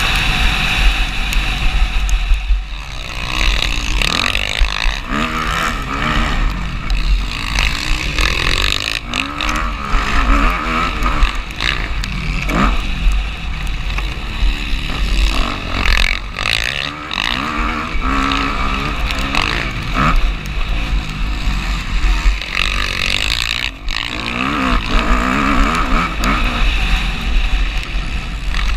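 Motocross motorcycle engine revving up and down again and again as the bike accelerates and backs off, with heavy wind buffeting on the microphone throughout.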